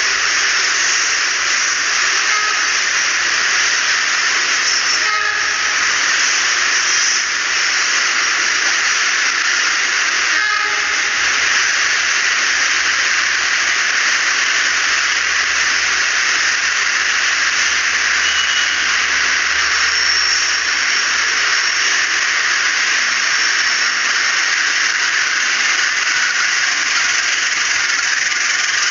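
A rake of passenger coaches rolling past: a steady rush of steel wheels on the rails, with faint knocks about 5 and 10 seconds in.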